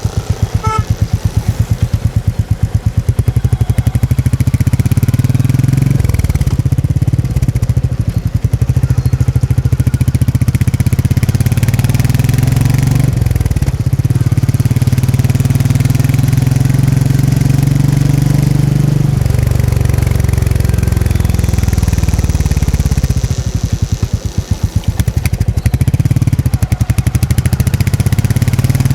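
Royal Enfield Meteor 350's single-cylinder engine and stock exhaust running under way, the note climbing and dropping back several times as the bike accelerates and changes gear.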